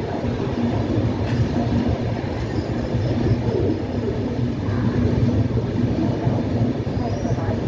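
Passenger train coach rolling into a station, heard from its open door: a steady rumble of wheels and running gear on the rails, with a couple of faint clicks.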